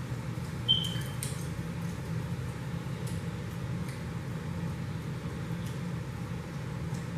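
Children eating chicken wings, with faint chewing, mouth clicks and smacks over a steady low hum. There is a brief high squeak a little under a second in.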